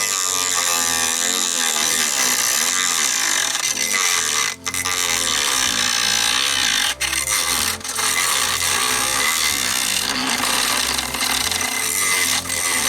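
Homemade mini grinder, a 12-volt DC motor in a PVC-pipe housing, running at speed and grinding into a workpiece with a steady rasping noise. The noise drops out briefly about four and a half seconds in and twice more near the seven- and eight-second marks.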